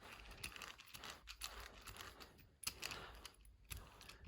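Carpet seam roller rolling over a freshly glued carpet patch, a faint run of rapid small clicks and rustling.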